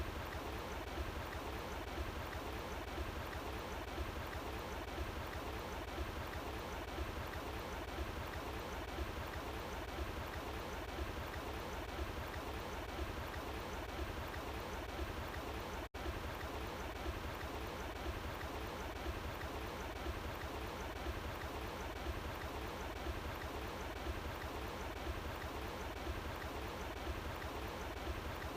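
Running water flowing steadily, an even rushing sound with a deep low rumble beneath it. It cuts out for an instant a little past halfway, then carries on unchanged.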